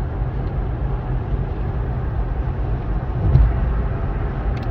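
Steady road and engine noise heard inside the cab of a truck driving on a highway, with a brief louder low rumble about three seconds in.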